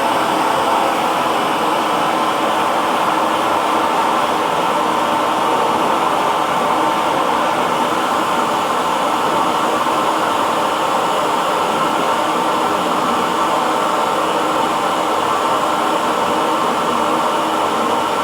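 Hair dryer running steadily: an even whooshing blower noise with a faint steady hum, unchanging throughout.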